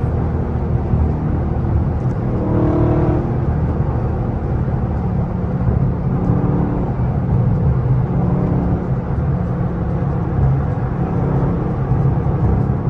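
Dodge 392 HEMI 6.4-litre V8 running as the car is driven, a steady deep engine drone that shifts slightly in pitch.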